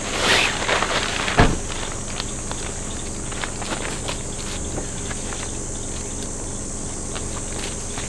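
Steady high-pitched drone of insects, likely cicadas or crickets, under scattered light clicks and steps. A rustle fills the first second, and a single thump comes about a second and a half in.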